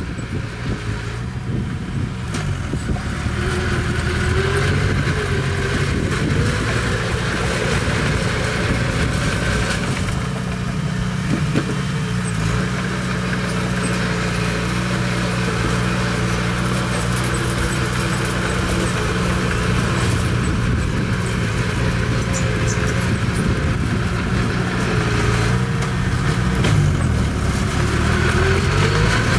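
Bulldozer's diesel engine running steadily under load, its pitch dipping and rising a few times as the machine works.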